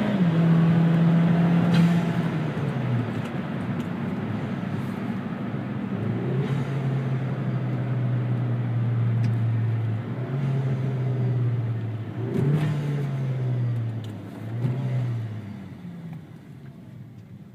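Chevy Sonic RS's turbocharged 1.4-litre four-cylinder with a new aftermarket exhaust, heard from inside the cabin while driving. The engine note drops in pitch about three seconds in and holds steady, then rises and falls briefly twice near the end before fading as the car slows.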